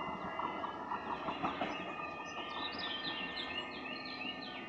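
Electric passenger train's wheels on the rails, a rumble with a few clicks, fading as the train pulls away. From about halfway through, a bird sings a quick run of short, repeated high notes over it.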